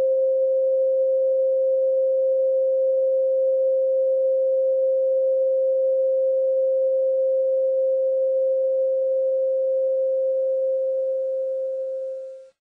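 A steady pure 528 Hz sine tone, unchanging in pitch, that fades out and stops near the end.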